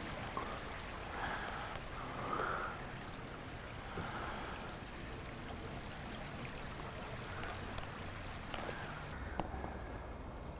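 Floodwater running steadily in a swollen creek: an even rush of moving water, its higher hiss dropping away about nine seconds in.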